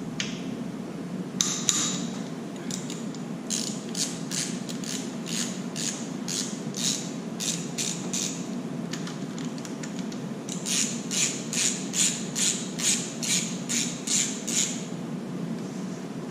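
Ratchet wrench clicking in two runs of even strokes, about two a second, as bolts are turned on a 2JZ-GTE engine during oil pump removal. A steady low hum runs underneath.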